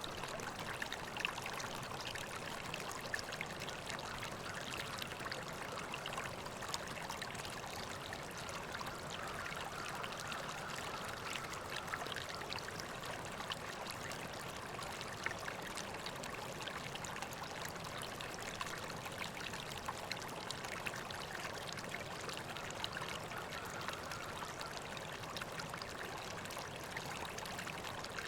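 River water flowing and babbling steadily, with many small splashes and trickles over the constant rush.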